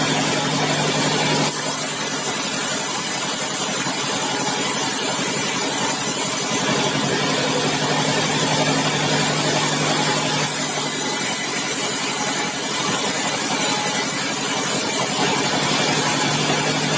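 Large sawmill machinery running steadily: a continuous loud mechanical din over a steady low hum, with the high hiss switching abruptly up and down several times.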